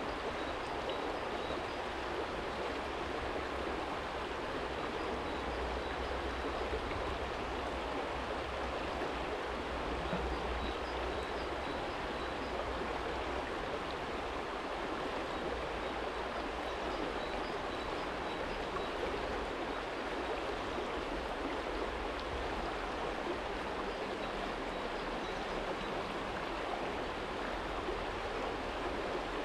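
Small stream flowing over a stony bed: a steady rush of running water. A low rumble of distant traffic lies underneath.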